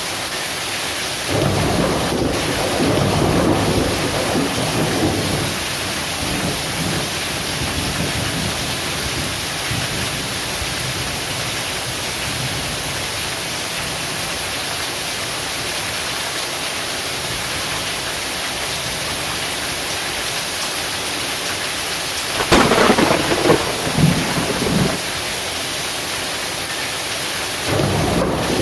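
Heavy rain falling steadily in an even hiss, with thunder rolling over it. The rumbling swells up about a second in and dies away a few seconds later; about 22 seconds in, a sharp thunderclap is followed by rumbling, and more rumbling builds near the end.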